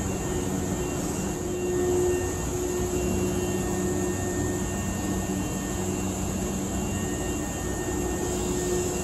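Steady hum of the stopped Hankyu Kyo-train Garaku idling at the platform, its running equipment giving a few low, even tones over a constant rushing noise, briefly a little louder about two seconds in.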